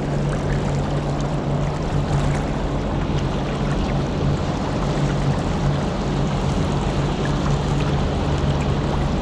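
Boat motor running steadily under way, a constant low hum with the rush of water and wind over it.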